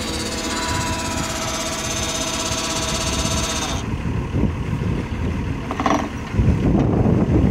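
Engine on a well-drilling outfit running steadily, with a high whine over it that cuts off a little under four seconds in; near the end a louder, rougher low rumble comes in, as if the engine is put under load.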